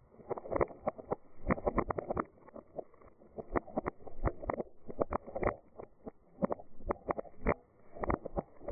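Beans rattling and rolling against each other, in uneven bunches of quick clicks.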